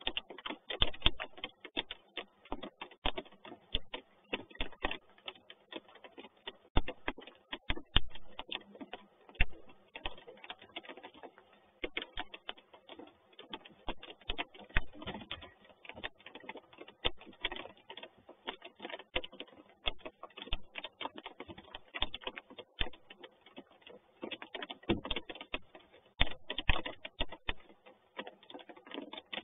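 Rain falling on the nest box, heard as a dense, irregular tapping with occasional louder taps.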